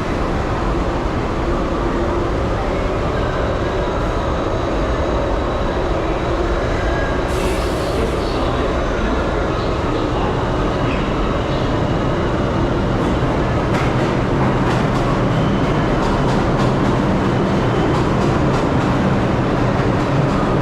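New York City subway train running, a loud steady rumble with rattling and rapid clicks that grow busier from about halfway through.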